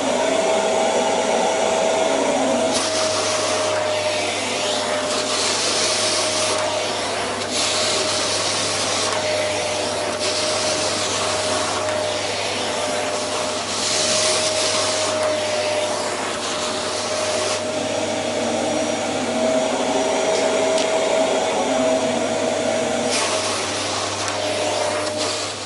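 Household vacuum cleaner running loudly with a steady whine under its rushing air noise; the hiss swells and fades several times. The owner thinks the machine is on its way out.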